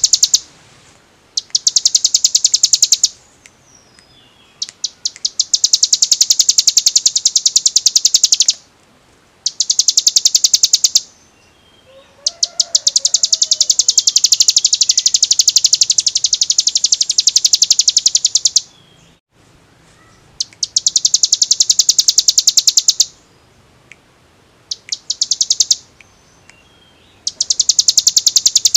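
Ciblek gunung (a prinia) singing in its rapid, drill-like 'ngebren' style: long, high trills of very fast, evenly repeated notes, each running from one to several seconds, over and over with short pauses between.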